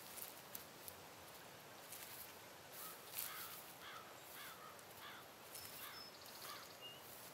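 Faint outdoor ambience with a bird calling in a quick series of about six short, repeated calls, starting about three seconds in. A few soft rustles, like steps in dry grass, come near the start.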